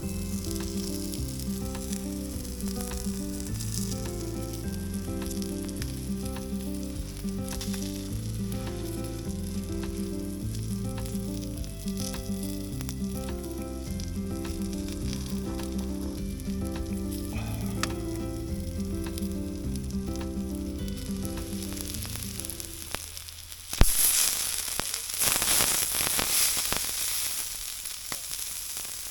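Background music, a melody of changing notes, over a steady sizzle of food frying. About 24 seconds in the music stops with a click, and the frying sizzle, now louder, carries on alone.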